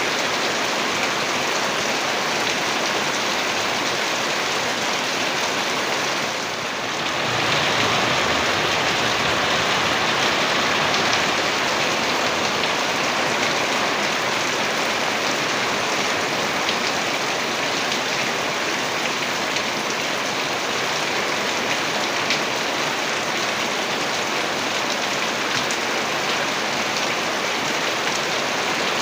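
Heavy rain falling steadily, a dense even hiss of rain on surfaces, briefly dipping in level about six seconds in.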